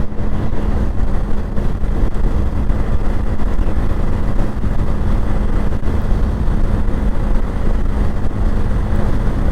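Wind rushing over a helmet-mounted action-camera microphone on a moving motorcycle, with the bike's engine running steadily underneath as a low hum.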